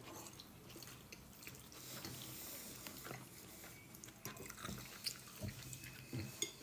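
Faint chewing and mouth sounds from someone eating soft gnocchi, with a few light clicks of a metal fork against a ceramic bowl in the last couple of seconds.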